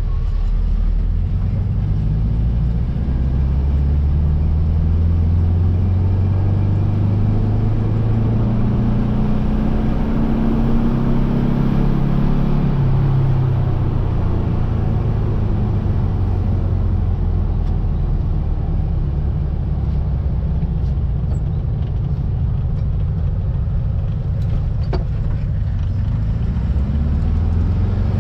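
1700cc air-cooled VW flat-four engine of a Baja Bug running under load. Its pitch climbs for about ten seconds, drops sharply a little past the middle, then holds lower and steadier before rising again near the end.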